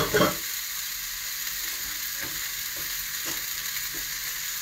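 Salmon pieces frying in oil in a nonstick pan: a steady sizzle with a few soft pops, and a brief louder knock right at the start.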